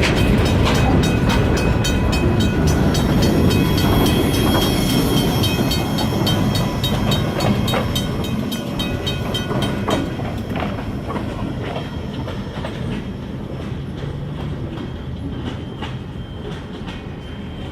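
Freight train cars rolling past, the wheels clicking rapidly over rail joints over a low rumble, with a thin high squeal from the wheels. The sound slowly fades as the train moves away.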